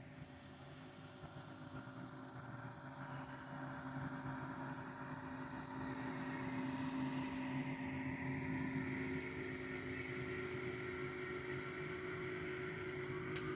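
Distant engine drone, a steady hum that grows louder over the first half and then holds.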